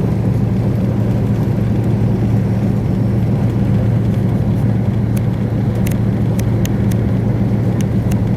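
Express passenger train running, heard from inside the coach: a steady, loud low rumble with a constant low hum, and a few faint sharp clicks from about five seconds in.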